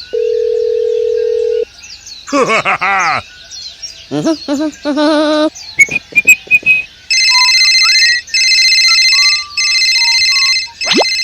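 Telephone sound effects: a steady dial tone for under two seconds, short squeaky voice-like sounds, then an electronic ringtone in four long bursts.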